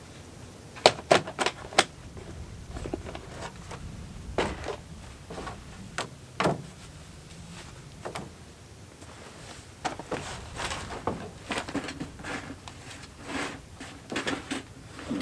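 Scattered sharp clicks and knocks, like objects being handled: a quick cluster of several about a second in, a couple more around four and six seconds, then a run of lighter taps and clatter in the last five seconds.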